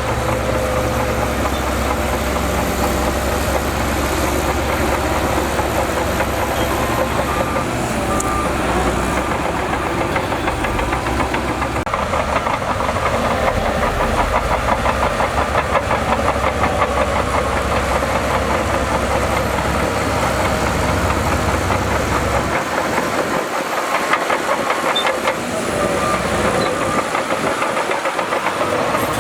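Heavy diesel engine of earthmoving machinery running steadily under load, with a fast, even rumbling pulse. The deepest part of the rumble drops away about three-quarters of the way through.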